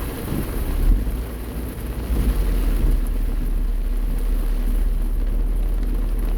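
Car driving through heavy rain, heard from inside the cabin: a steady low rumble of engine and tyres on wet road under a hiss of rain, with a brief louder swell about a second in.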